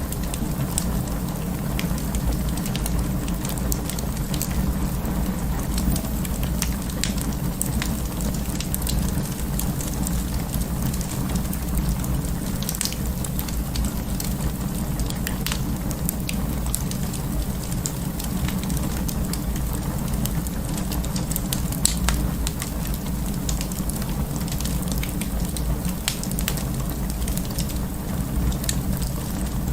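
Wood fire in an open fireplace crackling: scattered sharp snaps and pops over a steady low rumble of the flames, one snap a little louder about two-thirds of the way through.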